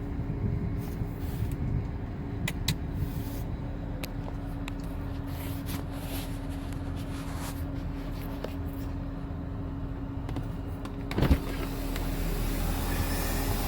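A car idling with a steady low hum and light scattered ticks. About eleven seconds in comes a sharp knock, and after it a hiss rises.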